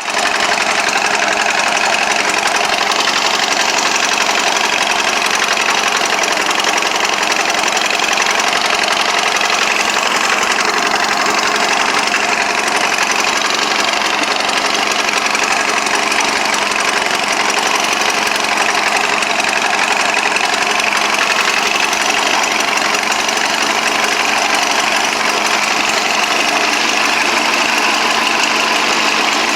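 Allis-Chalmers B tractor's four-cylinder engine running at a steady speed, with an even, rapid firing beat.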